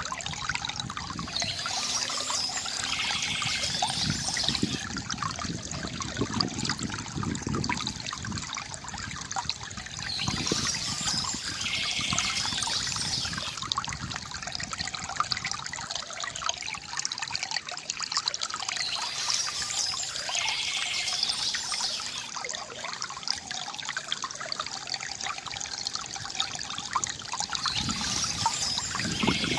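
Water from a bamboo fountain trickling and pouring continuously, with a brighter, higher passage that comes back about every nine seconds.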